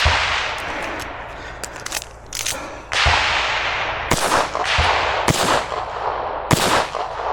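Gunshots fired one at a time at an uneven pace, about six of them, each followed by a long echoing tail.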